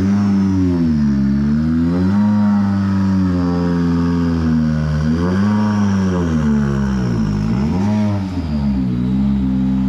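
Ford Fiesta R5 rally car's turbocharged four-cylinder engine revving up and down repeatedly as the car is driven slowly up onto a trailer. Its pitch rises and falls several times.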